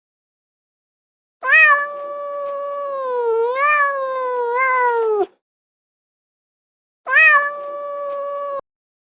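A cat meowing twice, in long drawn-out yowls: the first lasts about four seconds with a wavering pitch, the second is shorter, about a second and a half.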